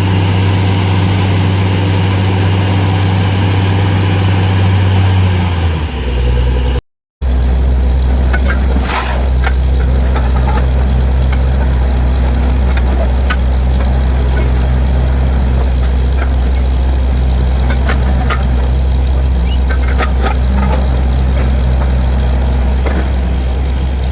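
Borewell drilling rig's engine running steadily under load. Its pitch drops about six seconds in, and after a brief break it runs on at a lower pitch with scattered clicks and rattles.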